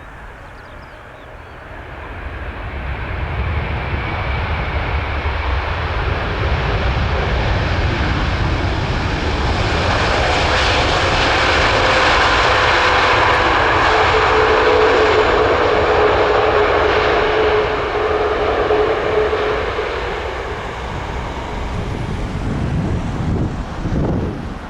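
Delta Airbus A330-900 jet airliner with Rolls-Royce Trent 7000 engines passing on landing approach. The jet noise builds over several seconds, peaks, then fades, with a whining tone that drops in pitch as the aircraft goes by.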